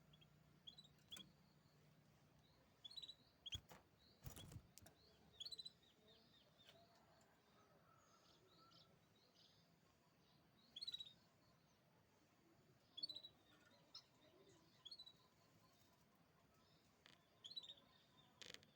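Faint, scattered short bird chirps in small bursts every second or two, with a couple of sharp clicks about four seconds in.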